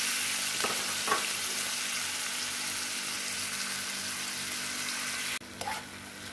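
Chopped tomatoes and green pepper sizzling in hot oil in a non-stick frying pan. The loud, steady sizzle drops off abruptly about five seconds in, and a spoon then stirs and scrapes them in the pan.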